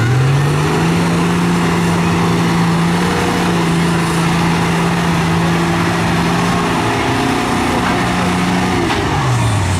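Off-road racing truck's engine revving up in the first second, held at high revs for about eight seconds, then dropping back near the end.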